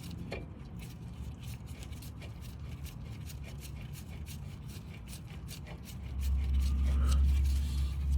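Small clicks and light scraping of brake caliper hardware being handled, as a caliper slide pin is fitted. A steady low rumble lies underneath and swells about six seconds in.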